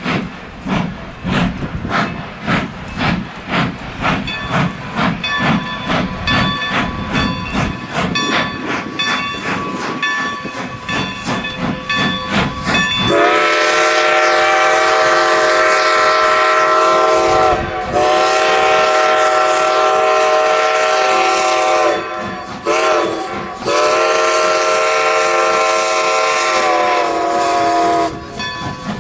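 Steam locomotive's chime whistle blowing long, long, short, long (the grade-crossing signal) over the rhythmic clatter of the moving train. The clatter runs alone for the first half, then the whistle comes in loud.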